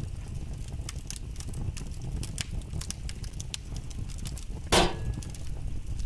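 Fireplace crackling: scattered sharp pops and snaps over a steady low rumble, with one louder, brief rush of noise about five seconds in.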